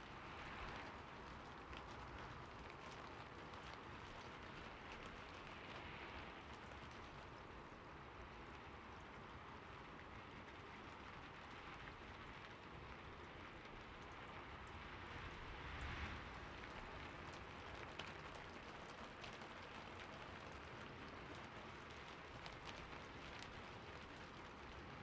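Steady, soft rain falling on a roof: an even hiss of rainfall with many separate drops ticking on the surface, and a brief swell about two-thirds of the way through.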